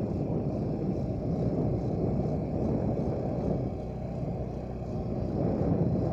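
Motorcycle engine running steadily at low speed, easing off briefly about four seconds in.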